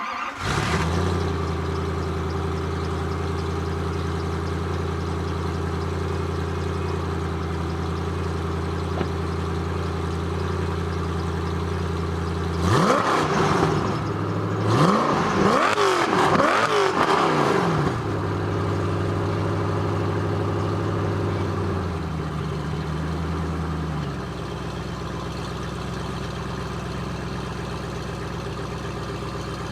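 Koenigsegg CC8S's V8 starting up and settling into a high, steady idle. In the middle it is revved in several quick blips over about five seconds, then drops back to idle, which steps down lower twice near the end.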